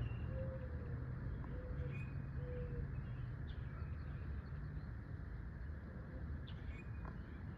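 Bird calls: three short, low, cooing notes in the first three seconds, then a few faint higher chirps, over a steady low rumble.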